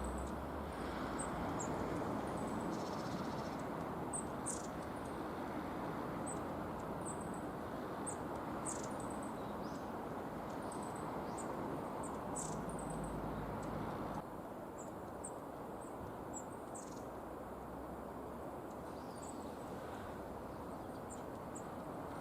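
Small songbirds giving short, very high, thin call notes, scattered irregularly, over a steady low background noise that becomes a little quieter about two-thirds of the way through.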